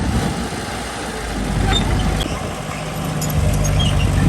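Heavy diesel engine of earthmoving machinery running at low revs, with the engine note growing louder about three seconds in.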